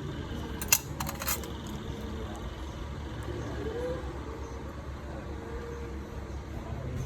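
A quick cluster of three or four sharp metallic clicks about a second in, steel nail tools clinking, over a steady low background rumble.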